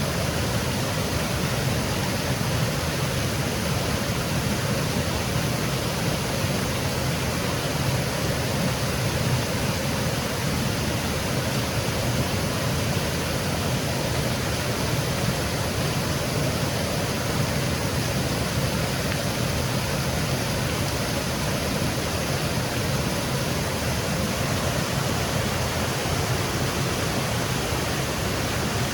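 Small woodland waterfall cascading, a steady, unbroken rush of falling water.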